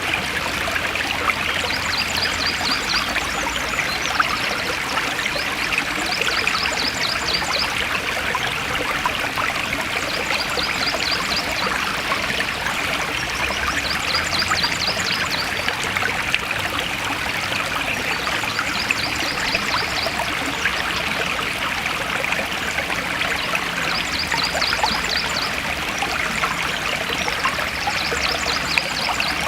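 Forest stream flowing steadily with an even rushing and trickling. Above it a high, rapid trill about a second long repeats every four seconds or so.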